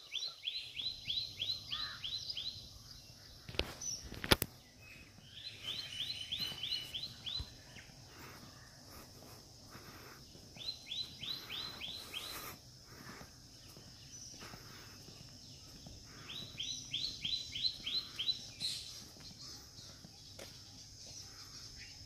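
A bird singing the same phrase over and over, a quick run of about eight high descending notes, repeated four times about five seconds apart. A couple of sharp clicks come about four seconds in.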